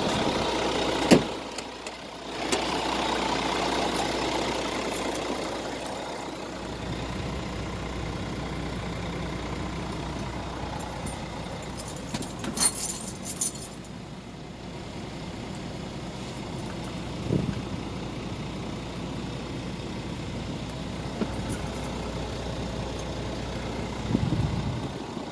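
Scania R450 tractor unit's 13-litre straight-six diesel idling steadily. Several sharp knocks sound over it, one about a second in, one past the middle and one near the end, and there is a brief metallic jangling rattle about halfway through.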